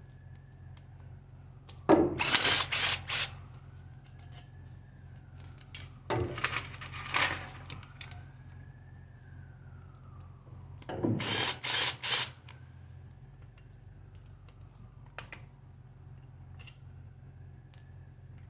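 Impact gun run in three short bursts, each about a second long and a few seconds apart, its hammer rattling as it loosens bolts on the engine's oil filter bracket.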